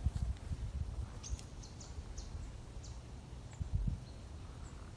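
A small bird chirping several times in quick succession, short high notes about a second in, over a low rumble with a few soft knocks.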